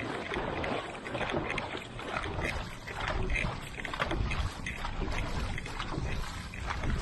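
Dragon boat crew paddling hard just after a racing start: paddle blades splashing, with water rushing along the hull.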